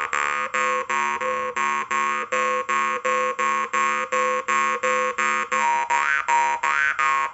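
Yakut khomus (jaw harp) played in an even plucked rhythm, about three strokes a second, over a buzzing drone. One overtone rings out steadily, then from about six seconds in the overtones slide up and down as the player shapes them with the mouth.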